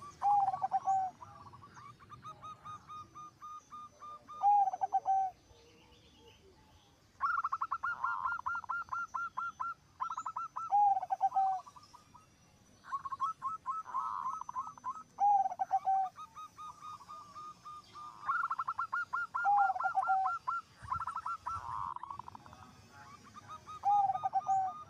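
Zebra doves (perkutut) cooing: repeated phrases, each a quick run of stuttering notes followed by lower, drawn-out coos, with phrases sometimes overlapping.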